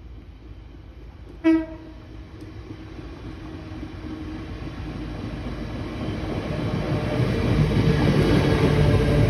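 Hull Trains class 802 bi-mode train sounding one short horn tone about a second and a half in, then running through the station at speed, its noise growing steadily louder as it approaches and passes close by.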